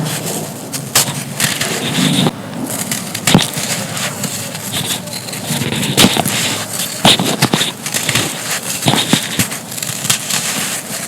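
Dry, crispy chunks of molded pure sand crushed and crumbling, giving irregular crunchy crackling with many sharp snaps.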